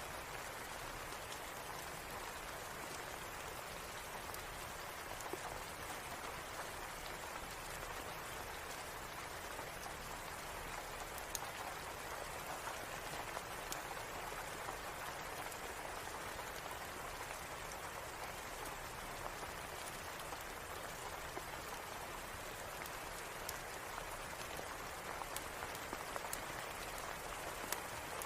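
Steady rain falling as a dense, even patter, with faint sharp ticks scattered through it.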